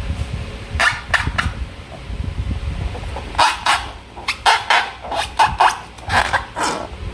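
Slime and rubber balloons being handled and squeezed: a few short, wet-sounding bursts about a second in, then a quick run of them from about halfway on.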